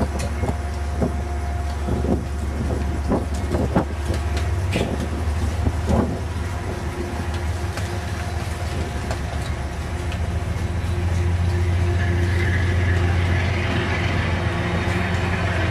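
Amtrak passenger train rolling along the station platform: a steady low drone with a few sharp clicks in the first several seconds. It grows louder about ten seconds in as the train's end approaches, adding a rushing hiss.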